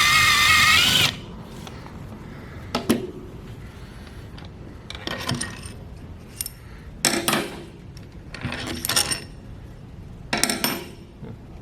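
A power drill-driver whirs for about a second at the start, spinning out a bolt, with its pitch rising just before it stops. After that come a handful of short metallic clinks and rattles of metal engine parts and tools being handled.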